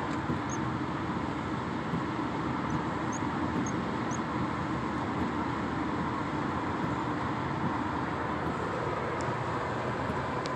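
Steady road and engine noise heard inside a moving car's cabin. A few faint, short, high cheeps from baby birds come in the first four seconds.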